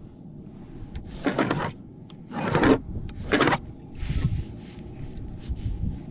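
Three short scrapes about a second apart, then a few lighter knocks, from roofing materials being handled and slid into place.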